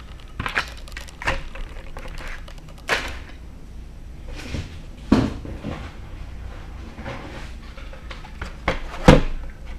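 Toy cars in plastic blister packaging being handled and set down: scattered clicks and clacks of plastic and cardboard, the loudest about five seconds in and again near the end.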